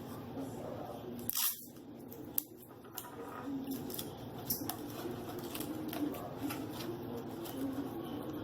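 Cardboard tubes and paper being handled for a craft: rustling and crinkling with scattered small clicks, and one louder handling noise about a second and a half in.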